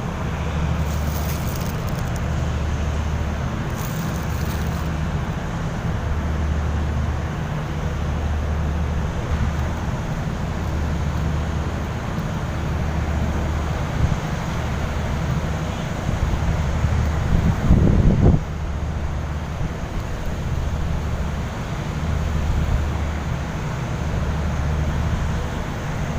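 Low, steady engine rumble that throbs about every second and a half, with wind noise on the microphone; a brief louder surge about two-thirds of the way through.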